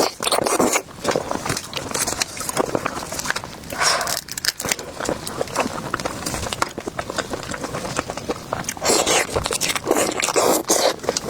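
Close-miked ASMR eating sounds: biting and chewing with many sharp clicks, and louder bursts near the start, about four seconds in, and around nine to ten seconds.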